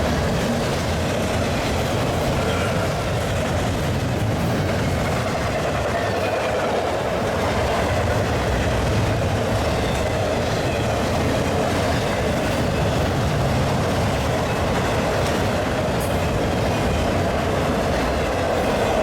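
Union Pacific freight train passing at speed: a steady, loud rumble of steel wheels on rail with some clatter over the rails.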